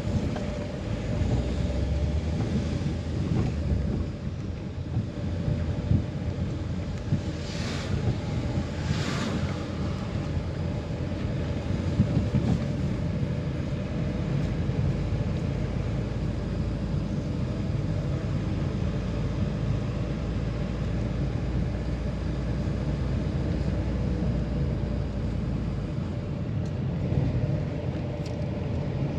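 A car driving along a road: steady engine and tyre rumble with wind noise on the microphone, and two brief hissing swells about seven and nine seconds in.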